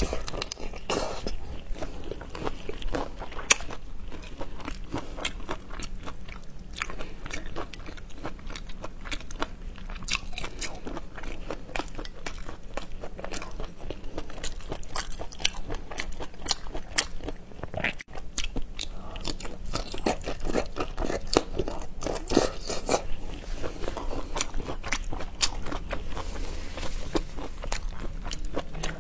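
Close-miked eating: a person biting and chewing seafood in a spicy chili-oil sauce, a steady run of wet mouth clicks and crunches several times a second.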